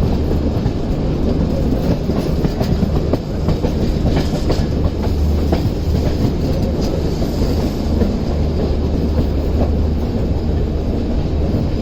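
Train running along the track: a steady low rumble of the coaches with scattered clicks and clatter from the wheels over rail joints.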